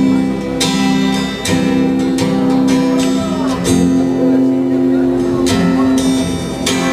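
Live rock band playing a song's instrumental intro: strummed guitar chords ringing over a sustained bass, the chord changing every second or two.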